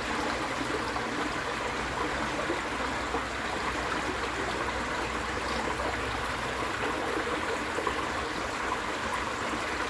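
A stream's water flowing steadily, an even, continuous rush.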